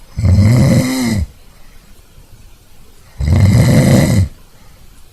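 A person snoring loudly in sleep: two long snores about three seconds apart.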